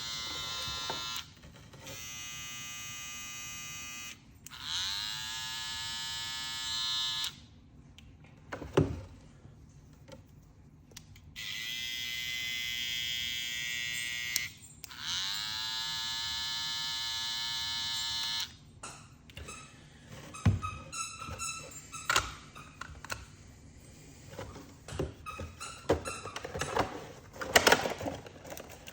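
Cordless hair clipper motor switched on and off about five times, each run a steady buzzing hum lasting a few seconds, some rising in pitch as the blade spins up. From about two-thirds of the way in, irregular clicks and knocks of plastic packaging being handled.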